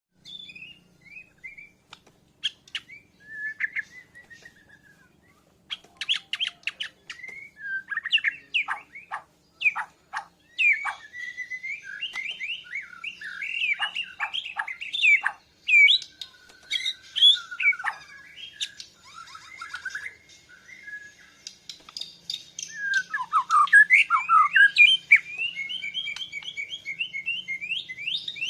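A white-crowned shama (Bornean murai batu) singing a varied song of whistled and slurred notes, fast trills and sharp clicking notes, with a short pause about five seconds in and a dense, loud phrase near the end. It is singing in response to a lure song (pancingan).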